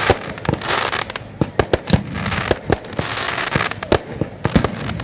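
Fireworks display: a rapid, irregular run of sharp bangs, several a second, with stretches of crackling between them.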